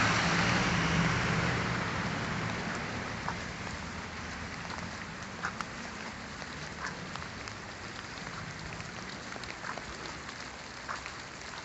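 Steady rain falling, with occasional louder drips. A vehicle passes at the start and fades away over the first few seconds.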